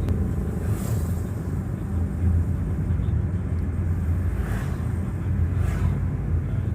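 Steady low rumble of a road vehicle on the move, with three brief whooshes of passing traffic: one about a second in and two near the end.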